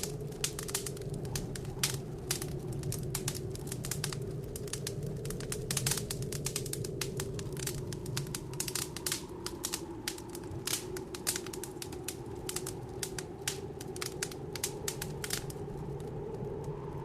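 Wood fire crackling in a fireplace, a dense run of sharp pops and snaps that thins out near the end. Underneath, a steady blizzard wind howls with a low drifting moan.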